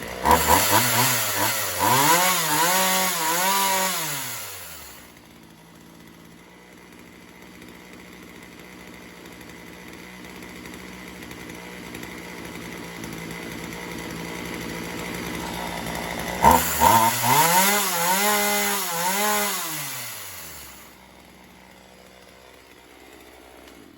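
Poulan Pro 4620 two-stroke chainsaw revved up and back down twice, idling steadily between the two revs, with its carburetor adjustment screw just set at two and a quarter turns to test the tune. The saw has been sitting unused and has a carburetor that runs sporadically.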